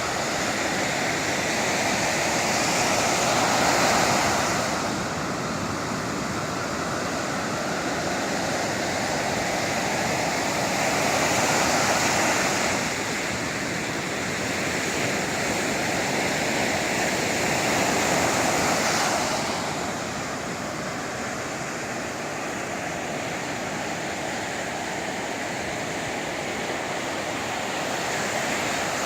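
Sea waves breaking on the shore and washing back, a steady rush that swells louder three times, about every seven or eight seconds, as the bigger waves come in.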